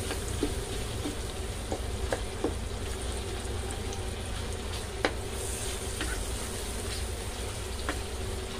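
Sliced onion and ginger sizzling in melted butter in a stainless steel pan, stirred with a wooden spatula that clicks against the pan a few times.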